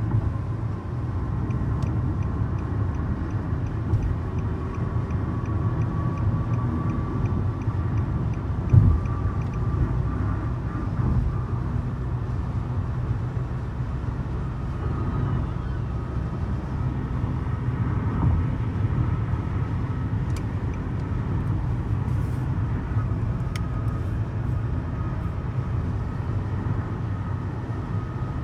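Car driving along the road: a steady low rumble of tyres and engine, with a faint steady whine. A light, regular ticking runs through the first part, and there is a single thump about a third of the way in.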